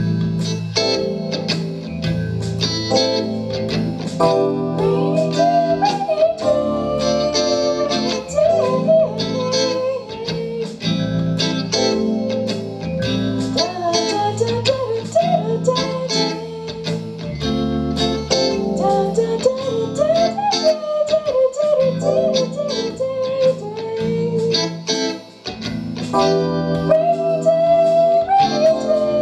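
Live band playing an instrumental break of a bluesy lounge-jazz song: guitar chords and bass under a steady beat, with a lead line that bends and slides in pitch. The lead drops out briefly near the end before the band comes back in full.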